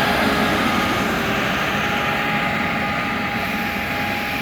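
A bus running with a steady vacuum-cleaner-like whine over its engine and road noise. The whine holds at several even pitches and fades slightly near the end.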